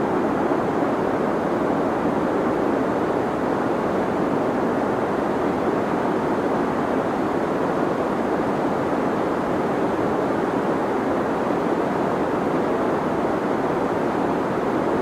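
Steady filtered noise of the sleep-aid kind: an even hiss centred low in the midrange, rolled off above a couple of thousand hertz and below about 200 Hz. The level holds constant, with no changes or events.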